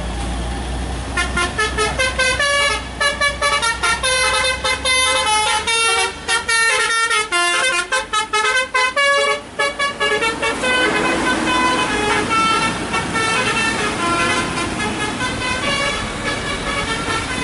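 Vehicle horns sounding over road traffic. From about a second in there is a run of rapid short toots at changing pitches, about three a second, like a multi-tone musical horn. After about ten seconds this gives way to fainter, longer horn tones over the traffic noise.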